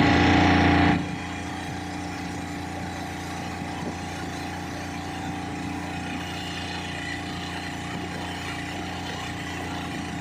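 Mercury 40 HP four-stroke outboard engine running after a rebuild. It runs at higher throttle for about a second, then drops to a steady idle.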